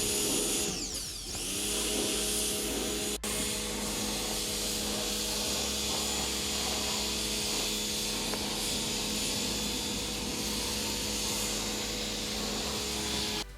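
A motor-driven machine running steadily with a constant hum, its pitch dipping briefly and coming back up about a second in. It cuts off abruptly near the end.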